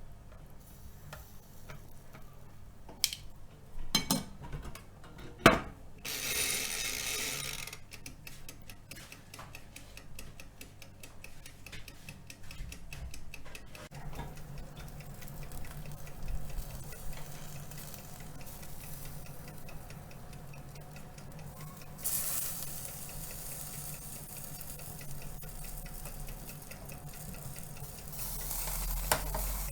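Chicken pieces cooking on a hot pan or grill, with a few sharp metal knocks of utensils against the pan early on and bursts of sizzling as pieces are moved. A fast, even ticking runs for several seconds in the middle, and a steady low hum comes in about halfway.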